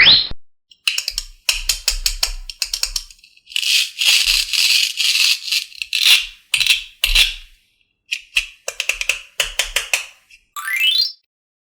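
Clusters of rapid rattling and clicking, with a few low thumps, opening on a quick rising sweep and ending with a rising whistle-like glide, like cartoon sound effects.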